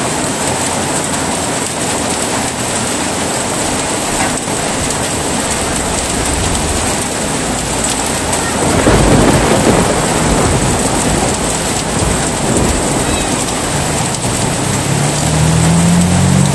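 Heavy rain falling steadily, with a low rumble of thunder swelling about halfway through and another low rumble building near the end.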